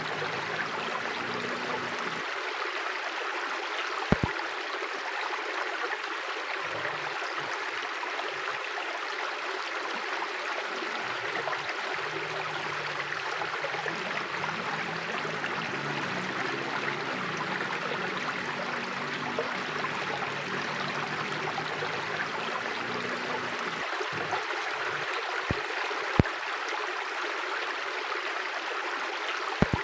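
River water flowing over stones in a steady rushing babble, with a few sharp clicks.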